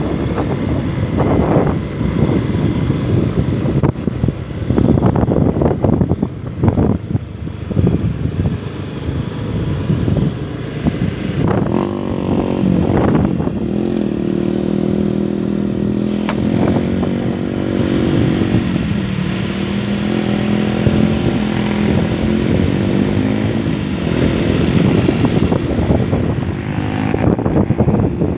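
Motor vehicle engine running, with wind buffeting the microphone; for several seconds in the middle the engine's tone stands out clearly, holding steady and then dropping slightly.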